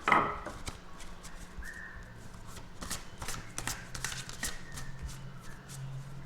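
Tarot deck being shuffled by hand: an irregular run of short card slaps and clicks.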